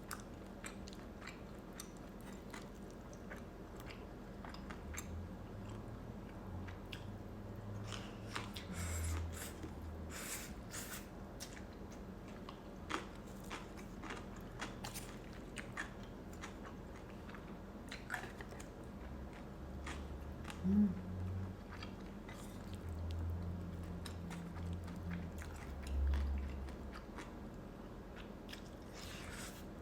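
Close-up eating sounds: a person biting and chewing rabokki, chewy Korean rice cakes with ramen noodles in spicy sauce. Soft scattered clicks come through, with louder stretches of chewing partway through and again in the second half.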